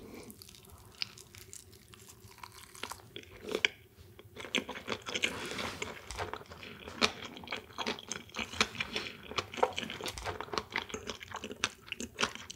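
Close-miked chewing of a whole futomaki slice (nori, rice, salmon, shrimp tempura, cucumber, pickled radish and burdock) taken in one mouthful: wet mouth sounds with crunching. The chewing is soft at first and turns busy and crunchy after about four seconds.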